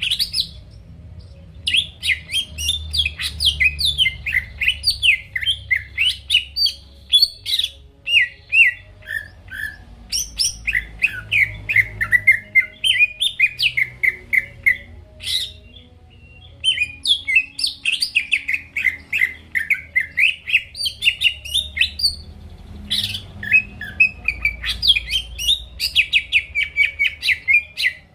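Green leafbird (cucak ijo) singing in long runs of rapid, varied chirps and whistles, broken by a few short pauses.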